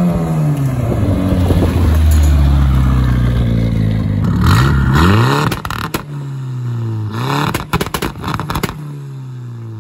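Turbocharged Nissan A14 four-cylinder engine in a 1400 bakkie, revving hard with the revs climbing and falling several times. Each time the throttle is lifted, about halfway through and again a couple of seconds later, there are bursts of hiss and sharp crackling pops. Near the end the engine eases off to a lower, steadier note as the pickup pulls away.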